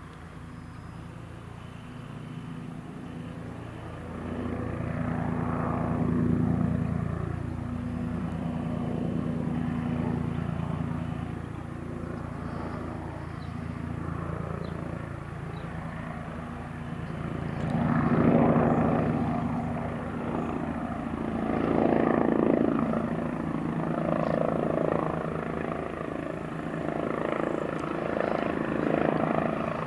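Twin-engine BK 117 C-1 helicopter with its rotor and turbine engines running, growing louder as it comes in to land. The sound swells and eases several times.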